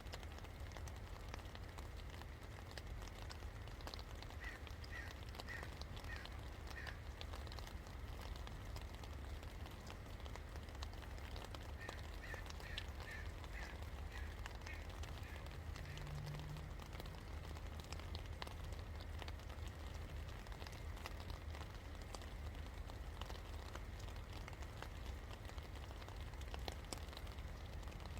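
Steady rain falling, with a continuous hiss and fine patter of drops. A bird calls twice in short runs of quick repeated notes, once about four seconds in and again near the middle.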